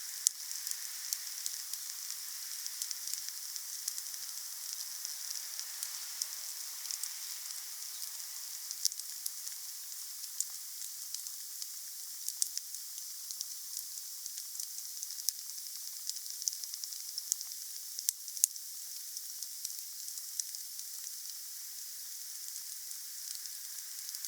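Wood campfire burning: a steady high hiss with frequent sharp crackles and pops from the burning wood.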